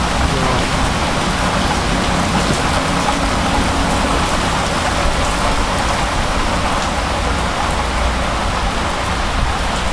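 Heavy downpour: a steady, even hiss of rain pouring onto flat roofs and pavement.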